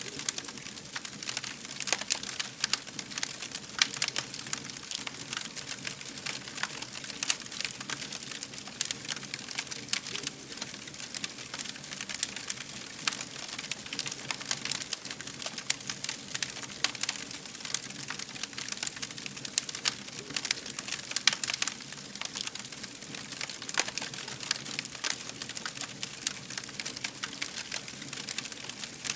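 Wood fire crackling: a steady hiss with many irregular sharp pops and snaps, some louder than the rest.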